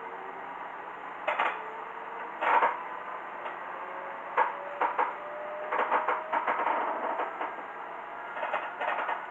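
Inside a moving diesel railcar: irregular clacks and rattles from the car body and wheels, over a steady hum and a faint whine slowly rising in pitch.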